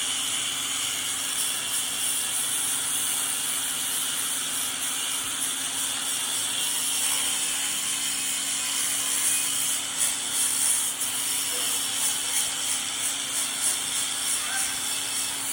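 A power tool working wood, running steadily: a constant motor hum under a hissing, scratchy noise that cuts off suddenly at the end.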